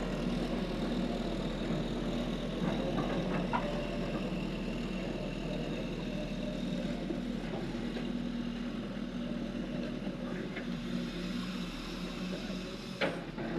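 Heavy diesel engine running steadily at an even speed, with a few short clanks about three seconds in and near the end.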